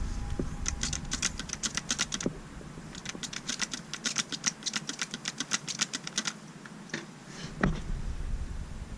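Rapid light clicking, about eight clicks a second, in two runs of a couple of seconds each, then a few single knocks near the end.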